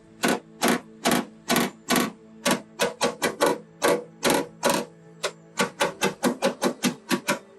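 Paintless dent repair tap-down: a hammer striking a knockdown tool against the car's body panel, knocking down high spots and crowns. The taps come about two a second, quickening to about four a second in the last couple of seconds.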